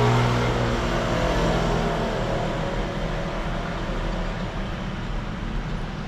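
A motor vehicle's engine hum that fades away over the first two seconds, leaving steady traffic noise.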